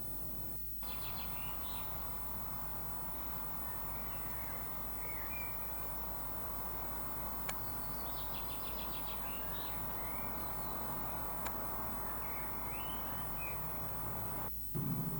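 Small birds chirping and trilling in short repeated phrases over a steady background hiss. A louder low hum cuts in suddenly near the end.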